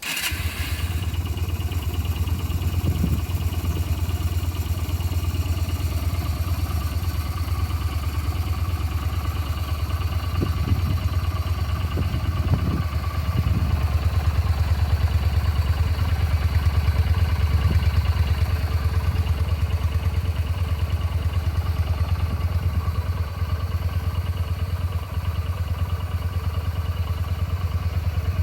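Yamaha SRV250S long-stroke 60-degree V-twin engine starting up and then idling steadily, with a strong low pulse.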